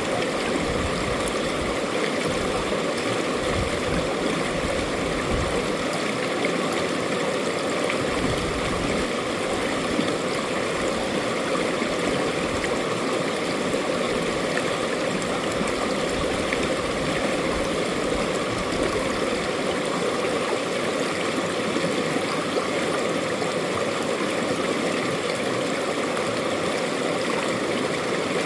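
Mountain valley stream running over rocks, a steady rushing flow.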